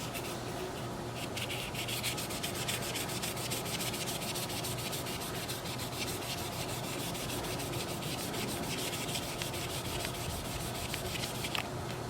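An abrasive pad rubbed rapidly back and forth by hand over an Oster 76 hair clipper's housing, in quick, even, continuous strokes. This is a fine sanding stage that smooths out scratches in the case.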